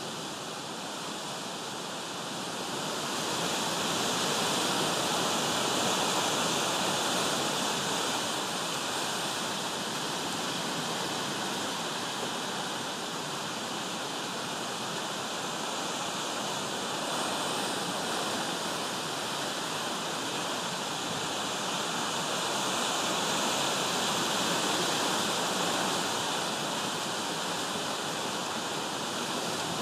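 Steady heavy rain falling. It swells louder a few seconds in and again near the end.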